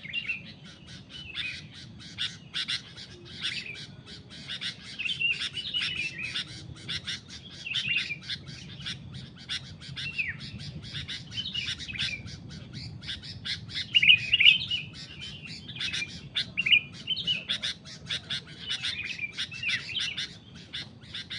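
Sooty-headed bulbuls calling: a dense run of quick chirps and short, bending chattering notes, with the loudest calls about two-thirds of the way through.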